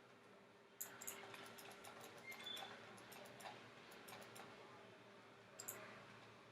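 Faint computer mouse clicks, scattered irregularly with a small cluster near the end, over a low steady room hum.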